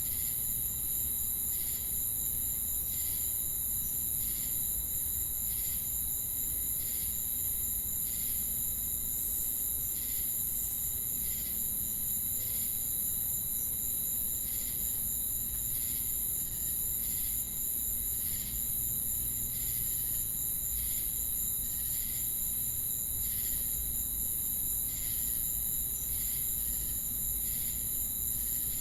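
Crickets and cicadas calling together: a steady high-pitched drone, with a chirp that repeats evenly about three times every two seconds.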